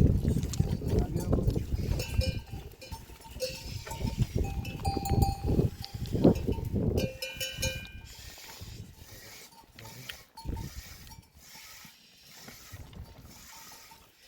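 Bells on a herd of livestock clanking and jingling irregularly as the animals move, busiest in the first half and thinning out after about 7 seconds.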